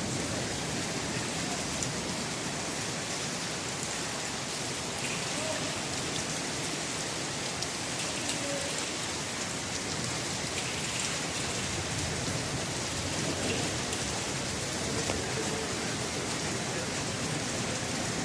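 Torrential rain pouring down steadily and splashing on hard surfaces in a thunderstorm.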